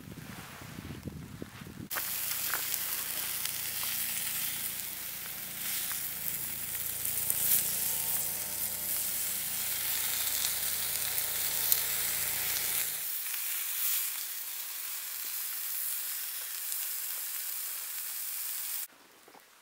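Chicken pieces frying in a pan over a wood campfire: a steady sizzle with a few sharp pops. It starts about two seconds in and cuts off suddenly near the end.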